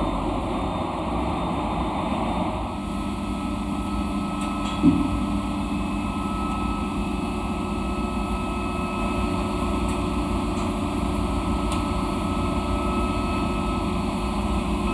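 Steady drone of ship's machinery, with faint whining tones over it and a single knock about five seconds in.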